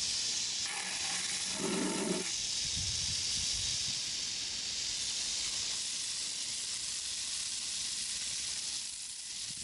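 Steady rushing hiss of water, with no speech.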